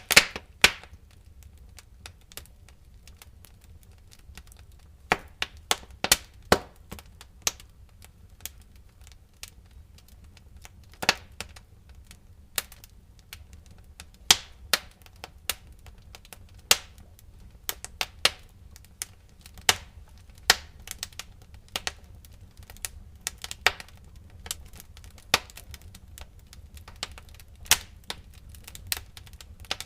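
Wood fire crackling in a fireplace: irregular sharp snaps and pops, some much louder than others, over a faint steady low rumble.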